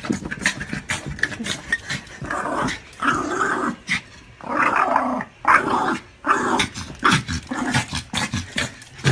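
Dog growling in several bouts of about half a second to a second, with many short clicks and knocks throughout.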